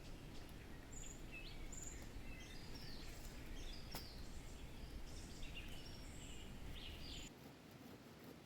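Small birds chirping and calling over a low, steady outdoor rush. The sound cuts off suddenly about seven seconds in.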